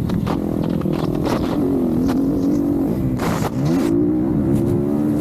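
Motocross bike engines revving, their pitch rising and falling as the throttle opens and closes, with two engines at different pitches heard at once. There is a short rush of noise about three seconds in.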